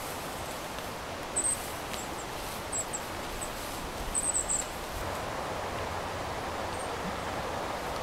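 Steady outdoor rustling hiss with short, very high bird chirps several times, the loudest a quick cluster about four seconds in.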